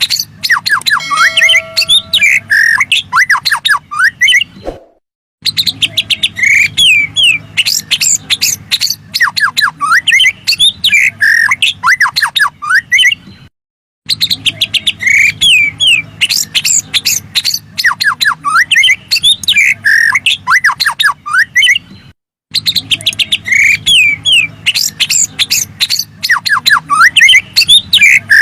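Loud, rapid song of a murai (Copsychus songbird), played as a lure recording: quick strings of downward-sliding whistles mixed with harsh chirps. The recording cuts to silence briefly about five, fourteen and twenty-two seconds in, as a loop restarts.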